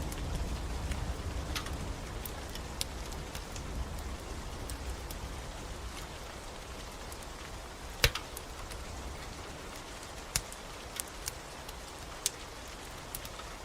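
Steady rain hissing, with a wood fire crackling: one loud sharp pop about eight seconds in and a few smaller pops near the end. A low thunder rumble dies away over the first few seconds.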